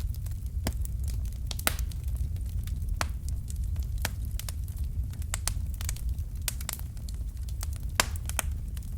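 Fireplace fire crackling: irregular sharp pops and snaps, a few a second, over a steady low rumble of the flames.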